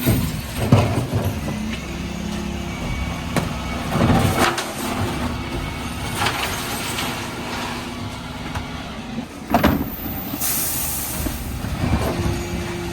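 Dennis Elite 6 refuse truck running at a collection, with heavy clanks of bins and their contents at intervals. About nine and a half seconds in there is a loud knock followed by a hiss of released air.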